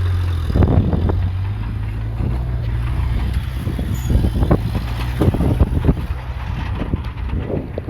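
Diesel engine of heavy earth-moving machinery running with a steady low drone, overlaid from about half a second in by a string of irregular clanks and knocks.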